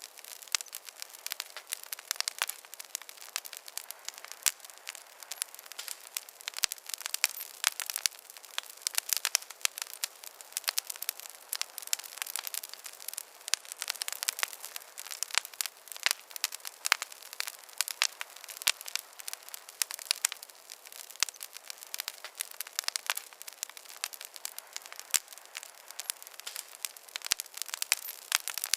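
Campfire crackling: a dense, irregular run of sharp pops and snaps over a soft hiss of burning wood.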